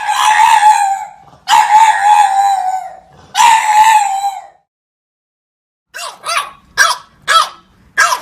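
A dog howling three times in long, steady, wavering calls. After a short pause it breaks into a quick run of short barks, about two a second.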